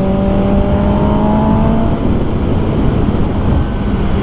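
A Kawasaki ZX10R's inline-four engine running under way, its pitch climbing slowly for about two seconds, then holding steady after a brief dip in loudness, over a heavy low rushing noise.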